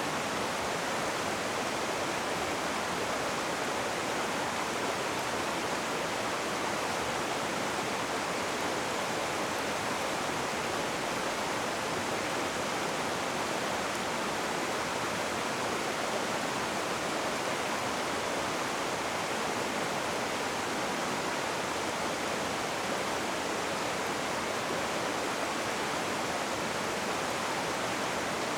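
Rushing river water: a steady, unbroken hiss of fast-flowing water.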